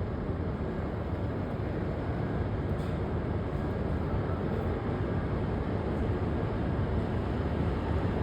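H5 series Shinkansen train at a station platform: a steady low rumble that slowly grows a little louder.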